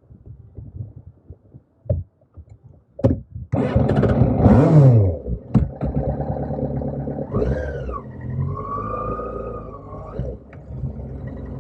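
Motorcycle engine starting about three and a half seconds in, revving briefly and falling back, then running with a whining tone that rises and falls. A few clicks and knocks come before it starts.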